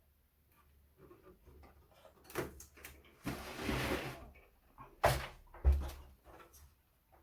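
Hard computer parts being handled during disassembly: a knock about two seconds in, a scraping slide lasting about a second, then two sharp knocks a little over half a second apart, with light clicks between.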